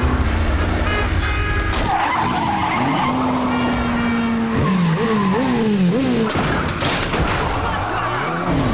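A 1980s BMW 5 Series (E28) sedan's engine revving hard, its pitch climbing and dropping again and again through quick gear changes, with tyre squeal as the car skids through the streets. Film score music plays underneath.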